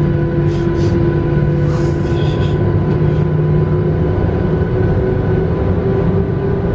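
Jet airliner cabin noise: the engines make a steady, loud rush with a droning hum that creeps slightly higher in pitch.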